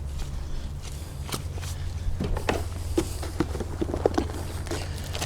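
Irregular light knocks and scuffs, coming several a second in the second half, over a steady low hum.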